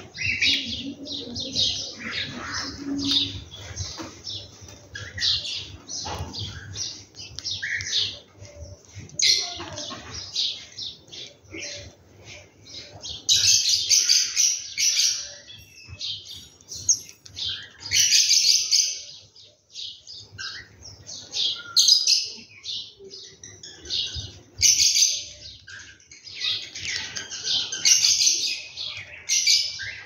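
Small birds chirping in quick, overlapping high calls, busiest around the middle and again near the end.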